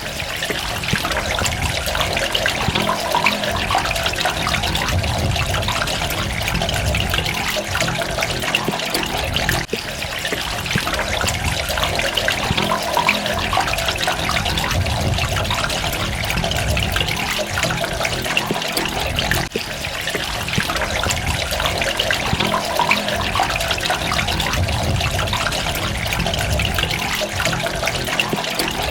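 Running water trickling and splashing in a steady stream with droplets. The same stretch repeats about every ten seconds, with a brief dip at each join.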